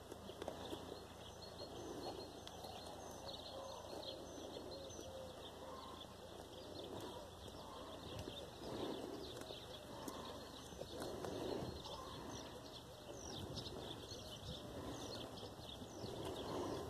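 Small birds chirping and calling over and over, with soft rustling swells every few seconds.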